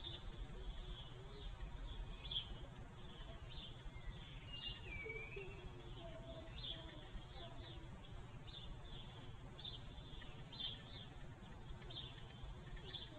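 Small birds chirping faintly: short high chirps about once a second, with a falling call about five seconds in, over a steady low rumble.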